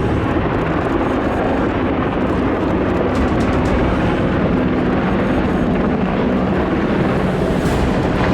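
Loud, steady engine noise with no clear rhythm.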